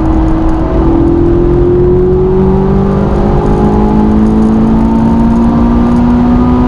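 Ferrari 458's naturally aspirated V8, breathing through a Capristo exhaust, pulling hard under acceleration. Its note climbs slowly and steadily in pitch over a heavy low rumble as the revs rise through the gear.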